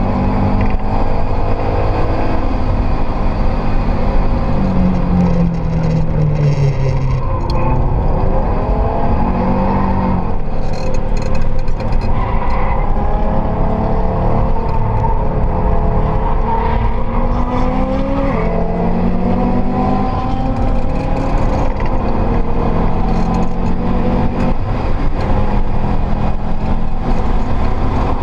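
Subaru STi's built, turbocharged EJ flat-four heard from inside the cabin during hard track driving. The engine note rises and falls with the revs, and the gear changes and lifts show as sudden drops in pitch, over steady road and wind noise.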